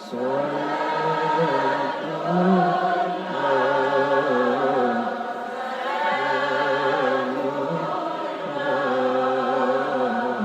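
Sholawat, Islamic devotional praise of the Prophet, sung in Arabic by a group of voices together, in long, drawn-out melodic lines that glide slowly in pitch.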